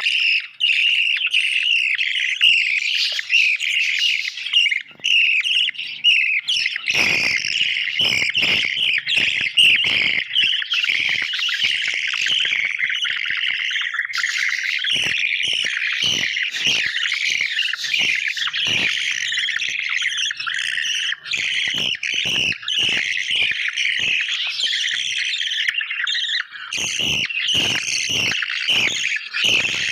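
Budgerigars chirping continuously in a dense, high-pitched chatter, with scattered sharp clicks and taps from about seven seconds in.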